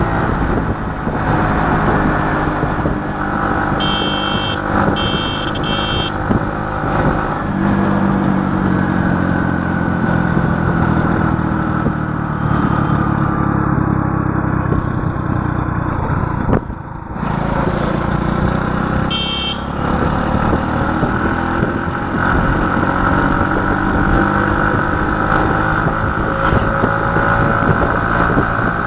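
A motor vehicle's engine running steadily, its pitch drifting up and down with engine speed, with a few short high beeps about four seconds in and another one near the twentieth second.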